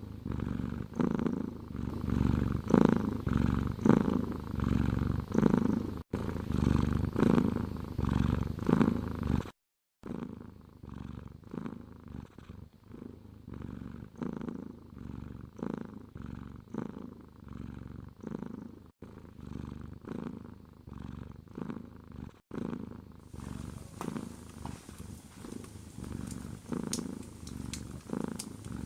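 Domestic cat purring in steady, even pulses with each breath, close and loud at first, then quieter after a brief break about a third of the way in.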